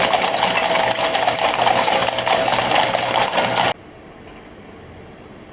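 Dense clattering noise made of many quick clicks and knocks, which cuts off suddenly near the end and leaves a faint steady hiss.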